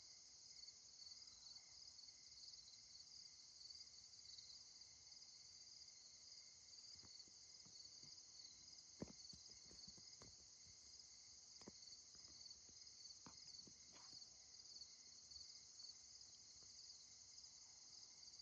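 Faint chorus of night crickets, a steady high pulsing trill, with a few faint clicks around the middle.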